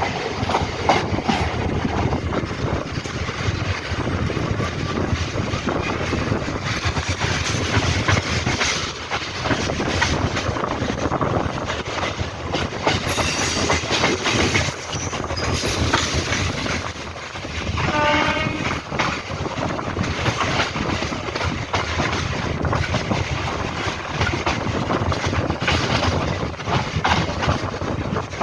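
MEMU electric passenger train running on the track: a continuous rumble with wheels clattering over the rail joints.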